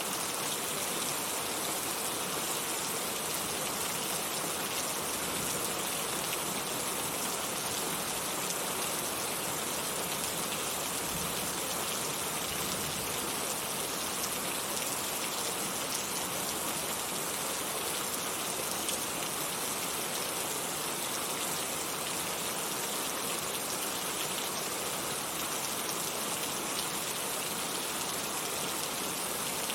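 Heavy rain falling steadily, an even dense hiss of drops on surfaces with no let-up.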